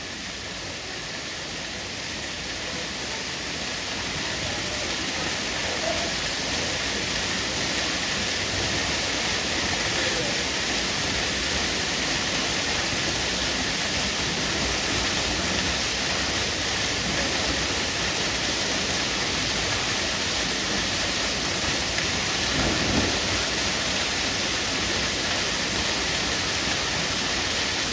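Waterfall rushing, a steady roar of falling water that grows louder over the first few seconds and then holds.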